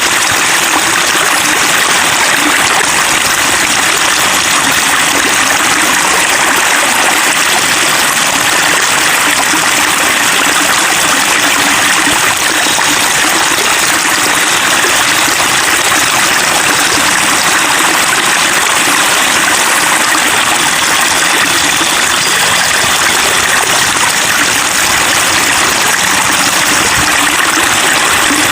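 Steady babbling and splashing of flowing water, a stream or small cascade, even and unbroken throughout.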